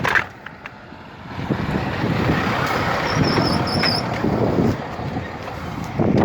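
A heavy truck passing on the road, its engine and tyre noise building up about a second and a half in and running on. A short high squeal sounds twice near the middle.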